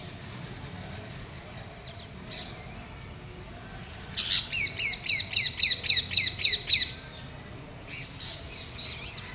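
A bird calling a fast run of about a dozen loud, falling notes, roughly four a second for nearly three seconds midway. Fainter short calls come before and after it.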